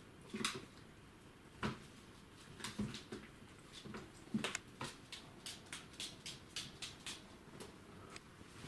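Border collie puppies moving about, making an irregular patter of small clicks and soft taps.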